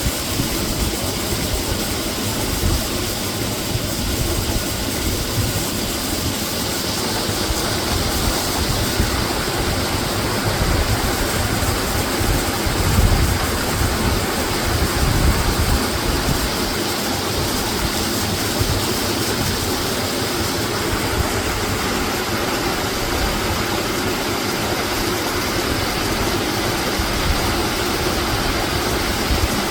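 Waterfall: a steady rush of falling water, with a louder low rumble around the middle.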